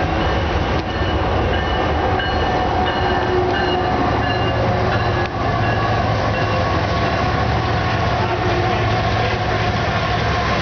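BNSF train led by four diesel locomotives running past: a steady, loud rumble of wheels on rail over a low engine drone, with brief high-pitched tones coming and going in the first half.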